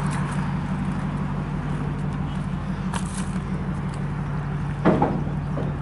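A vehicle engine runs steadily with a low, even hum. A click comes about three seconds in, and a brief voice-like sound near the end.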